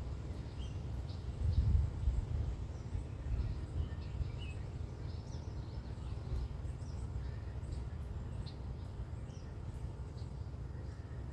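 Small birds chirping in short, scattered calls over a steady low rumble, which swells briefly about a second and a half in.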